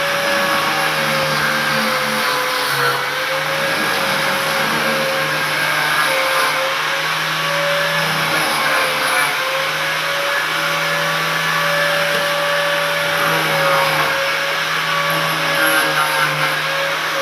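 Handheld electric power tool, most likely a grinder, running continuously with a steady whine that wavers slightly in pitch as it works the wood.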